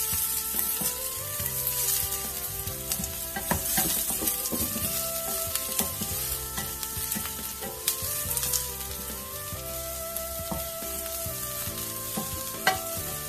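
Chopped onion sizzling in hot vegetable oil in a stainless steel pan as a wooden spatula stirs it, with scattered scrapes and taps of the spatula on the pan. The sharpest tap comes near the end.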